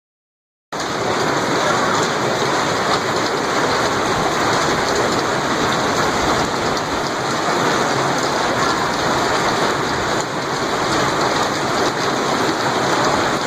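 Heavy hailstorm downpour: a dense, steady hiss of ice and rain pelting down, starting abruptly under a second in.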